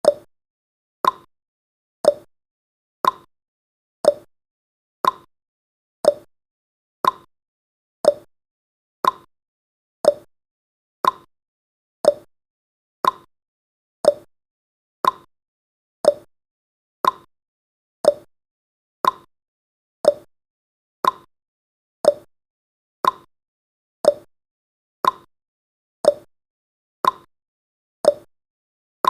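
Countdown timer's clock-tick sound effect: a short, sharp tick once every second, evenly spaced.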